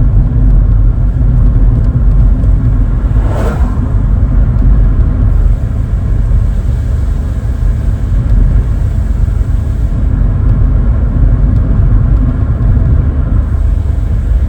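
Steady low engine and road rumble inside the cabin of a 1992 Vauxhall Cavalier with its C20NE 2.0-litre engine, driving along. A brief higher-pitched sweep rises and falls about three and a half seconds in.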